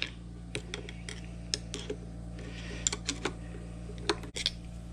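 Scattered light metallic clicks and taps of small parts and hand tools being handled at a workbench, over a steady low hum.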